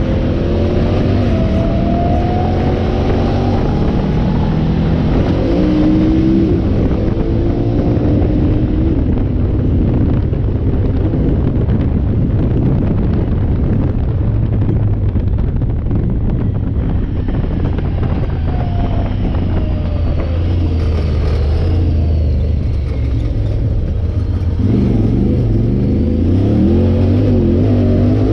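Motor vehicle engine running under load over a heavy low rumble, its pitch repeatedly rising and falling as it is revved near the start and again near the end, with a steadier, thinner stretch in between.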